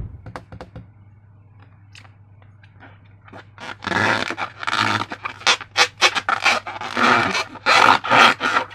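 Slime being squeezed and worked by hand: faint sticky clicks at first, then from about three and a half seconds in a fast run of louder wet squelches, several a second.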